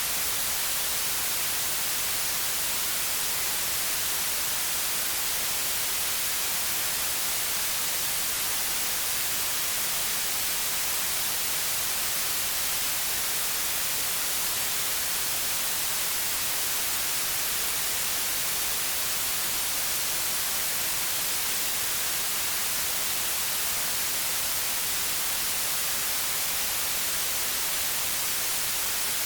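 Steady white noise: an even, unchanging hiss across all pitches, brightest in the treble.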